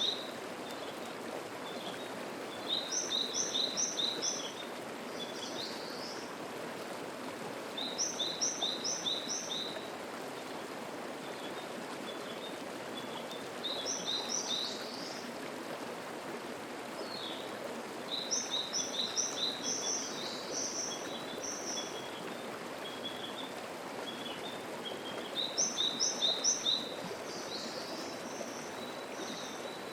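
Mountain stream babbling steadily. Over it, a songbird repeats a short, high song of four or five quick notes about every five or six seconds.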